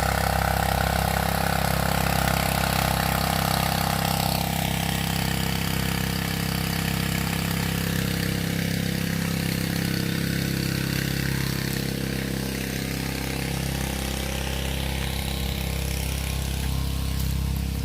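Small engine on a water buffalo tank driving its water pump, running steadily at one speed.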